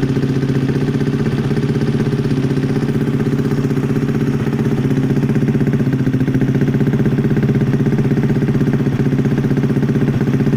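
Honda Vario scooter's single-cylinder engine idling through an aftermarket SC Project exhaust: a steady low idle with a fast, even pulse and no revving.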